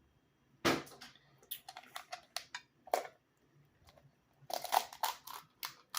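Blue crab shell being cracked and picked apart by hand: an irregular run of sharp crunches and crackles, coming in clusters.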